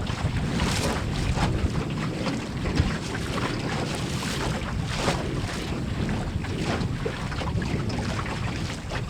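Strong, gusty wind of about 18 mph buffeting the microphone, with water rushing and slapping against the hull of a small wooden Melonseed sailing skiff under way.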